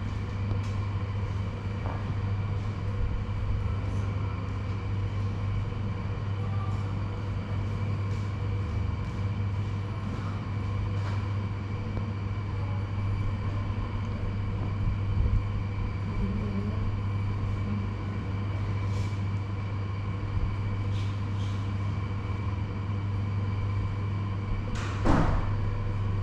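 A steady low electric hum with faint higher tones over it, broken by scattered light clicks and a louder rustling scrape near the end.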